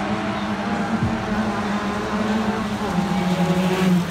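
Autobianchi A112 Abarth race car's four-cylinder engine running at steady revs as it comes round and passes close by, its note dipping slightly near the end.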